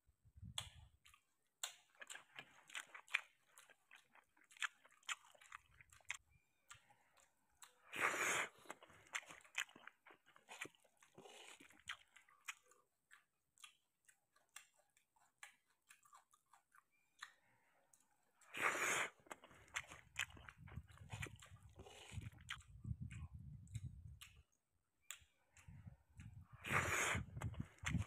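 Close-up chewing and wet mouth sounds of a man eating sardines in tomato sauce with rice by hand, full of small smacks and clicks, with three louder noisy bursts about 8, 19 and 27 seconds in.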